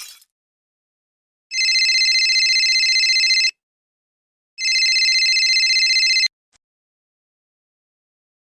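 Telephone ringing twice: two trilling rings of about two seconds each, with a pause of about a second between them.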